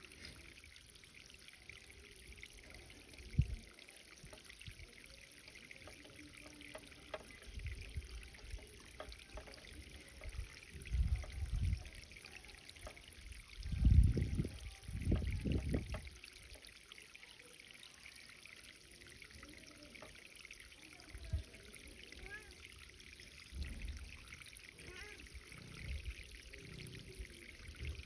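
Irrigation water trickling and pouring steadily onto a garden bed, with several irregular low rumbles, the loudest about halfway through.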